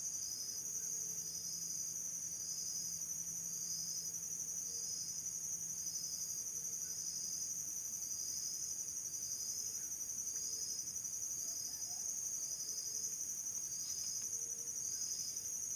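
Insects chirping, cricket-like: a steady high-pitched trill overlaid by a rhythmic pulsed chirp about one and a half times a second, with a faint low hum under it in the first half.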